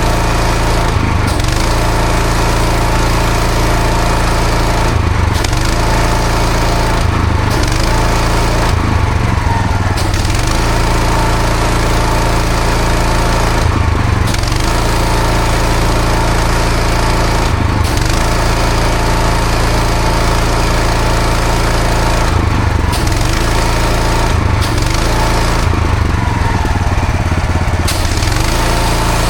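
Engine-driven pressure washer running steadily, with the hiss of the high-pressure water spray. The spray cuts out briefly about nine times, and the engine note shifts each time as the pump goes off load.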